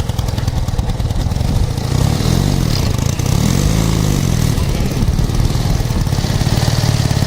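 Ural motorcycle's flat-twin engine running, revved up and back down a few times in the middle.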